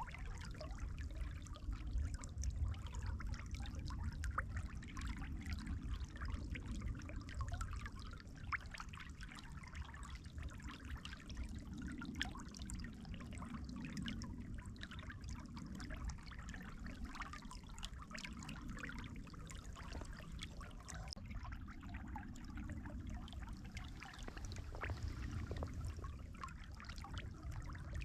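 Water trickling steadily with many small splashes, over a low rumble.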